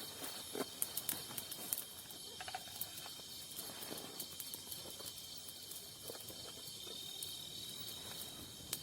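Night insects chirring in a steady high-pitched trill, with scattered sharp clicks and faint rustling, the loudest clicks coming in a cluster a second or two in.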